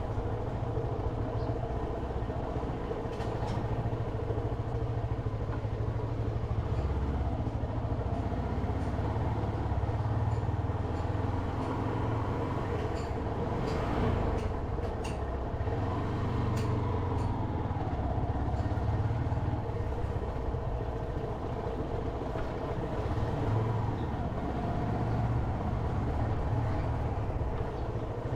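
Motorcycle engine running at a steady pace while riding, with road and wind noise. A few sharp clicks and a brief pitched tone come around the middle.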